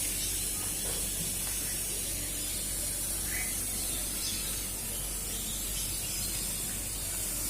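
Thermal fogging machine running: a steady hiss over a low hum.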